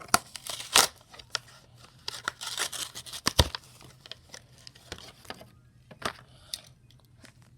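A Hot Wheels blister card being opened: card tearing and plastic crinkling in a run of short, irregular rips and clicks, loudest about a second in and again near the middle.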